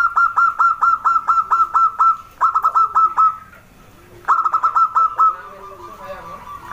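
Zebra dove (perkutut) calling: quick runs of short staccato cooing notes, about four or five a second, in several bursts broken by brief pauses.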